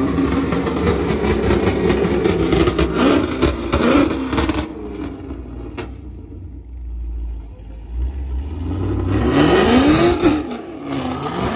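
Twin-turbo limo engine running and revving: a quieter stretch midway, then the revs climb and fall about nine seconds in and again near the end.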